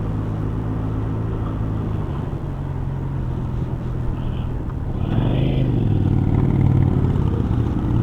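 Motorcycle engine running steadily, growing louder about five seconds in.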